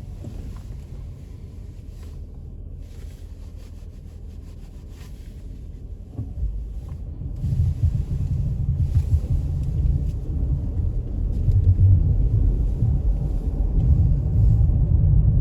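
Wind buffeting the microphone in a snowstorm: a low, fluttering rumble that swells about halfway through and stays gusty.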